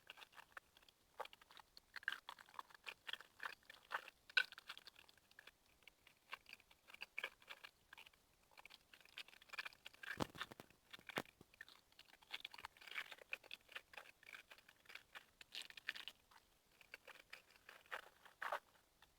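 Close-miked chewing of noodles: a quiet, irregular run of short wet mouth clicks and crackles.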